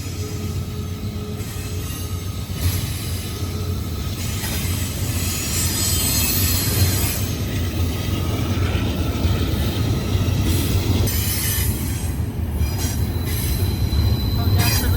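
Freight train cars rolling past steadily with a continuous low rumble, and thin high wheel squeal over it.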